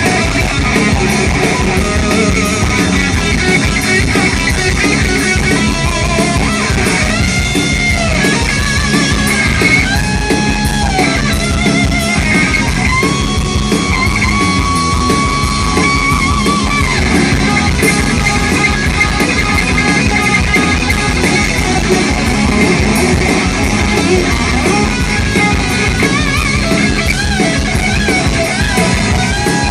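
Live rock band playing an instrumental section: an electric lead guitar holds long notes that bend and waver over a steady drum beat. The music is loud throughout.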